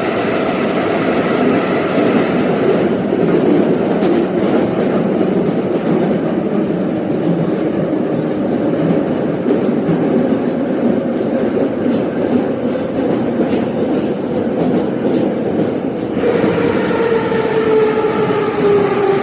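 Moscow Metro 81-717 train running between stations: a steady rumble of wheels on rail with clicking from the track. Near the end a whine comes in and falls slowly in pitch as the train slows.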